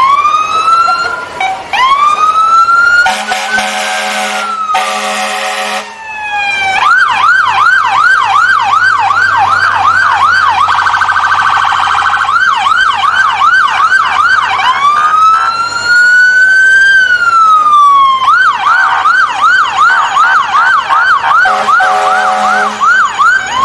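Fire truck siren sounding loudly, alternating between a slow rising-and-falling wail and a fast yelp of about three pitch sweeps a second. Two long blasts of a deep horn cut in a few seconds in, and another comes near the end.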